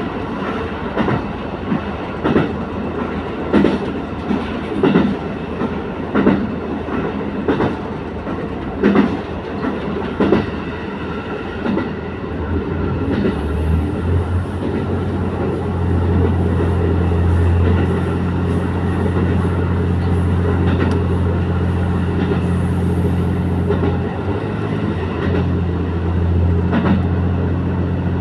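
A diesel railcar running on the Sekihoku Line, heard from on board. For the first half its wheels clack over rail joints about every second and a half. From about halfway on, a steady low engine drone rises and holds.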